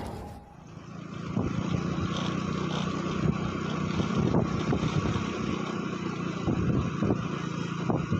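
An engine running steadily, with faint irregular crackles over it.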